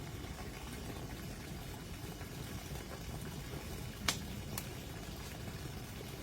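Small wood campfire burning with a steady hiss, with two sharp snaps about four seconds in, half a second apart.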